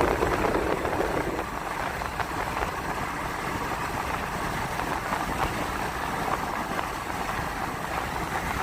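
Steady road and engine noise heard inside a moving vehicle's cabin.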